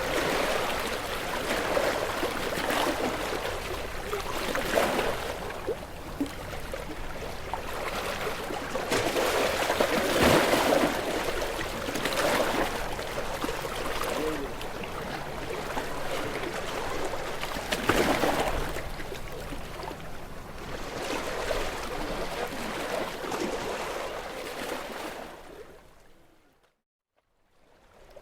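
Sea waves washing and splashing against shoreline rocks in repeated surges, the sound fading out to silence briefly near the end.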